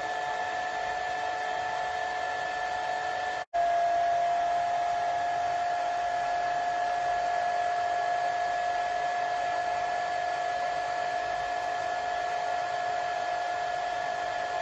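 Hair dryer running steadily: an airflow hiss with a steady whine on top. About three and a half seconds in it cuts out for an instant, then carries on slightly louder.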